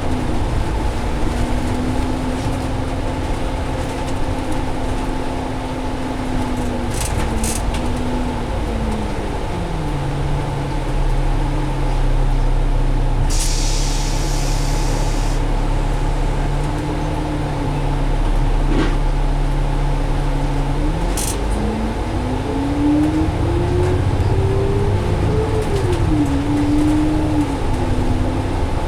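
Diesel double-decker bus with a Cummins ISL engine and Allison transmission, heard from inside, running at speed. Its whine drops in pitch about a third of the way in as the bus eases off, holds low, then rises and wavers again as it speeds back up. A short hiss of air comes about halfway through.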